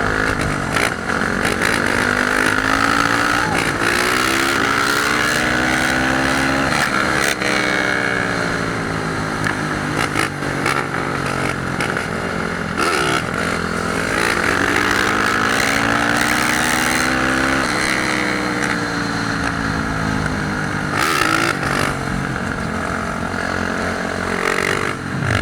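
Dirt bike engines revving, their pitch climbing and falling again and again as the riders open and close the throttle.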